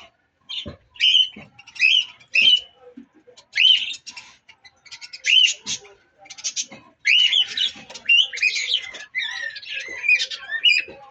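Budgerigars chattering: a run of short, quick rising chirps and squawks, thin at first and turning into busy overlapping chatter from about halfway through.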